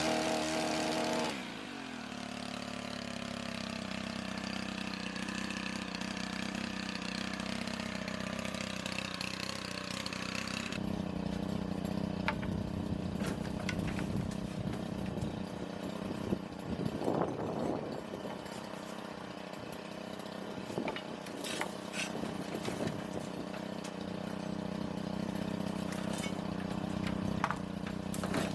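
An engine running steadily, louder for the first second and a half.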